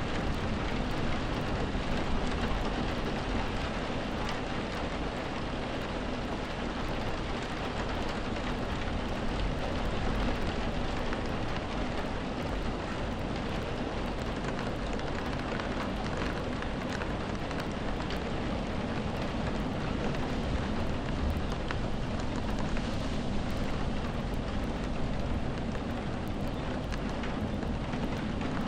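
Steady rain: an even, continuous hiss with fine scattered drop ticks and a low rumble underneath.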